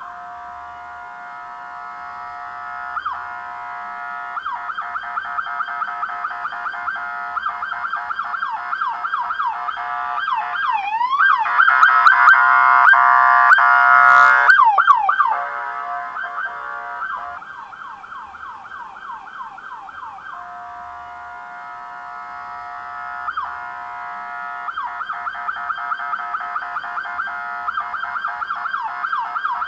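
Police car siren sounding continuously, shifting between a steady held tone and rapid yelping sweeps, louder for a few seconds near the middle.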